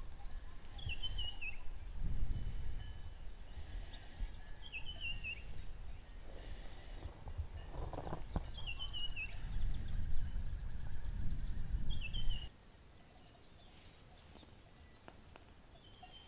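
A bird repeats a short, quick descending call four times, about every four seconds, over a low rumble that cuts off abruptly about twelve seconds in.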